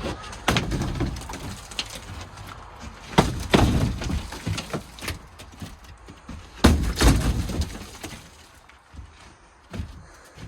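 Knocks and cracks of old wooden shed timber being broken apart, a series of separate impacts with the loudest clusters about three and seven seconds in.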